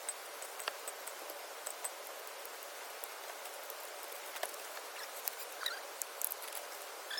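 Faint, scattered small clicks and ticks over a steady high hiss.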